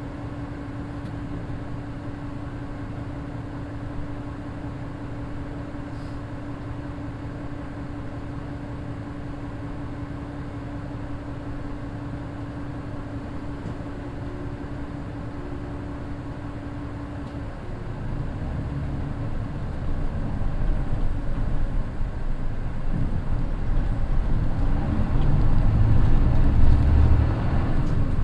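Mitsubishi Fuso Aero Midi bus's naturally aspirated 6M61 inline-six diesel heard from inside the bus, running steadily with a constant hum at first. About two thirds in, the engine note deepens and grows steadily louder as the engine takes load and speeds up.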